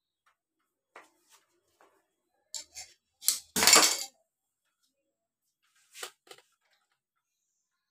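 Hard objects being handled: scattered light clinks and knocks, with a short, louder clatter about halfway through and two more clinks near the end.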